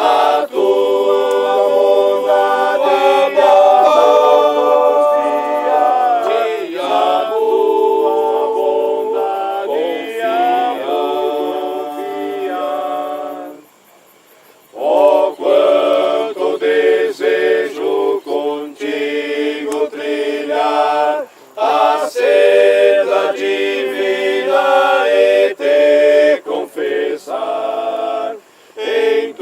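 A group of voices singing together unaccompanied, breaking off for about a second midway before the singing starts again.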